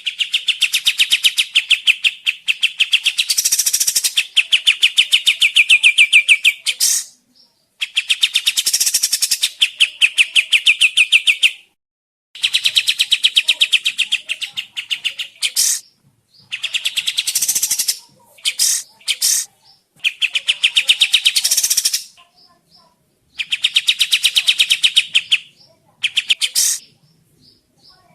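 Kapas tembak bulbul song: fast rattling trills of rapidly repeated notes, given in bursts of a few seconds with short pauses between, plus a few short single notes.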